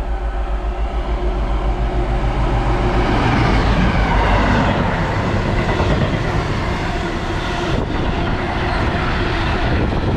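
Freight train passing through the station: a rumble that swells to its loudest about four seconds in, then the wagons run by with a steady rattling rumble.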